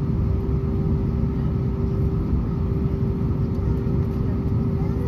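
Airbus A320 cabin noise on the ground before takeoff: a steady low rumble from the idling engines, with a steady hum running under it.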